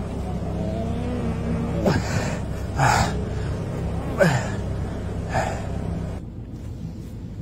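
Engine of an old Russian vehicle running steadily with a low hum, heard from inside the cab as it is driven. Four short sharp sounds that fall quickly in pitch come over it, roughly one a second. Near the end the engine sound gives way abruptly to a quieter background.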